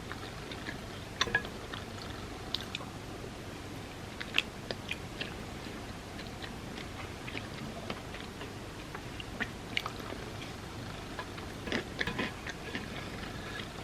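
Close-miked chewing and wet mouth sounds of someone eating chocolate truffles softened in warm almond milk: short moist clicks and smacks at irregular intervals, with a louder cluster near the end.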